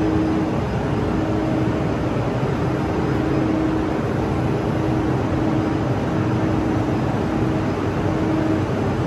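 Steady mechanical hum over a rushing air noise on an underground railway platform where an electric train stands waiting, from the train's running equipment and the station's ventilation. A low hum comes and goes every second or so.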